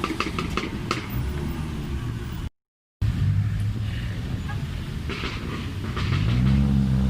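A car's engine running, revved up and let back down near the end, over a background of crowd noise, with a few sharp clicks in the first second and a brief break in the audio a little before the middle.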